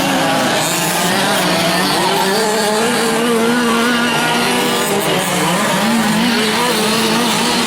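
Several 1/5-scale gas RC trucks with small two-stroke engines racing together, their engines revving up and down as they throttle through the course.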